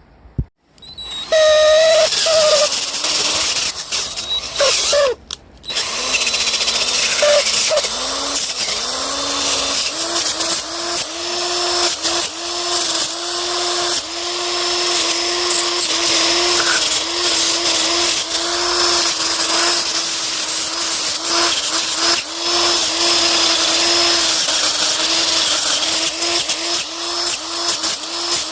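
Electric wire brush spinning against rotten wood, scouring off loose material: a steady motor whine over a hissing scrape, the pitch dipping now and then as it bites. It starts about a second in, stops briefly around five seconds, then runs on.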